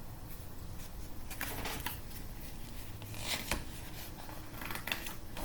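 Faint rustling and a few short scrapes of paper as a picture book's pages are handled.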